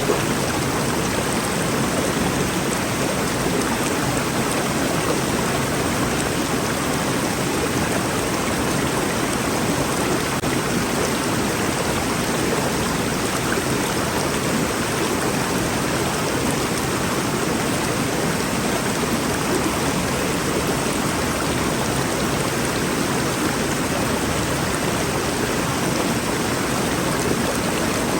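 Rainforest river flowing: a steady rush of water without a break.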